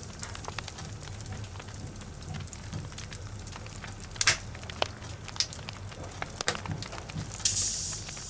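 Logs burning in a fireplace: a steady fine crackle with scattered sharp pops, a few louder ones in the second half, over a steady low hum.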